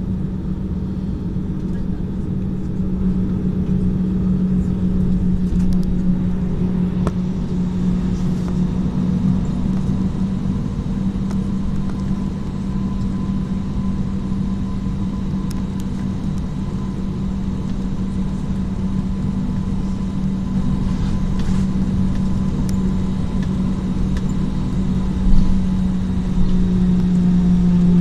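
Jet airliner engines heard from inside the passenger cabin during the takeoff run: a steady loud rumble with a held low drone. There is a single brief thump about 25 seconds in, and near the end the drone drops slightly in pitch.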